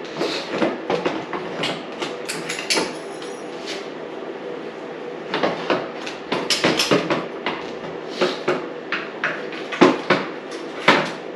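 Irregular metal clanks, knocks and rattles as the engine is worked loose and manoeuvred out of a dirt bike's frame, with a dense cluster of knocks in the middle and a few sharp clunks near the end, over a faint steady hum.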